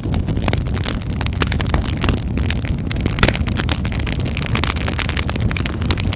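Fireplace fire crackling, with many sharp irregular pops and snaps over a steady low rumble.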